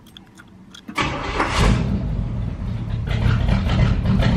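A few faint clicks, then about a second in the 1965 Pontiac Catalina's 389 cubic-inch V8 is cranked, catches and settles into a steady run. It is running just after its leaking exhaust bolts were replaced with shorter ones, without the rattle of that exhaust leak.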